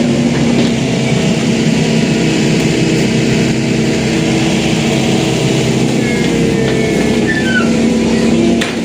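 Excavator's diesel engine running steadily under work, a constant low hum with a few faint high whistling glides about two-thirds of the way through.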